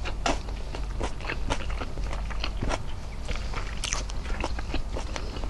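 Mouth sounds of eating with the hands: chewing and wet lip and finger smacks in a rapid run of small clicks, with the eggplant omelette being torn apart by hand about four seconds in.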